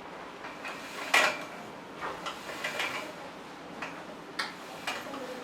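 A few scattered clicks and light knocks over low room noise, the loudest about a second in.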